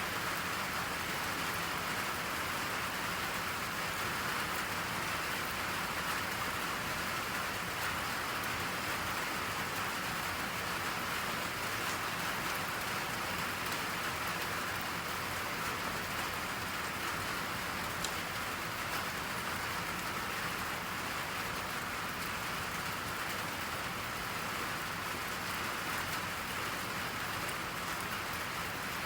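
Steady rain falling on a surface, an even hiss of many drops with faint scattered patters.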